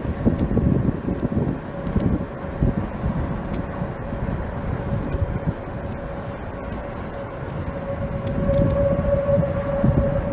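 Outdoor tornado warning siren sounding one steady held tone that swells louder near the end, under strong gusty wind buffeting the microphone.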